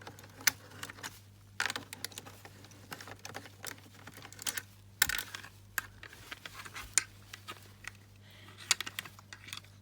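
Irregular clicking, tapping and brief scraping, as a parrot scrabbles and pecks about inside a wardrobe, its beak and claws on the things in there.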